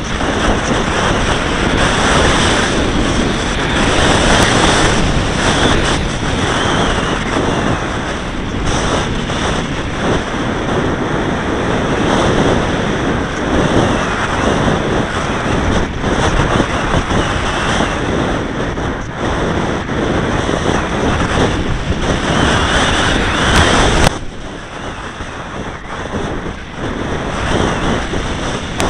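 Wind noise buffeting the microphone of a camera carried on a flying model aircraft, mixed with the model's motor. The noise drops suddenly about 24 seconds in and rises again near the end.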